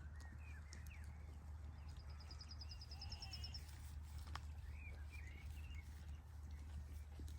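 Small birds chirping, with one fast high trill lasting about a second and a half, over a steady low hum of outdoor background noise and a few sharp ticks.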